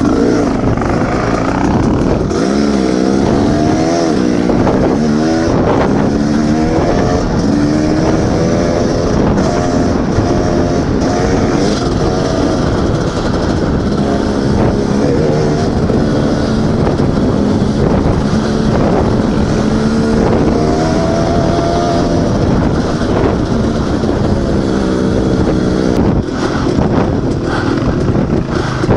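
Dirt bike engine running under way, its revs rising and falling over and over with throttle and gear changes.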